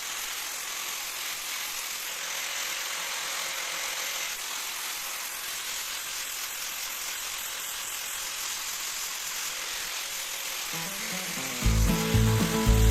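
A steady hissing noise, even and without any tone, with music coming in loudly near the end.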